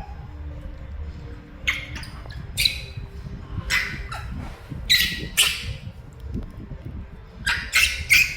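Pet monkey giving short, loud, shrill calls, about eight spread out with a quick cluster near the end, calling out for its mother.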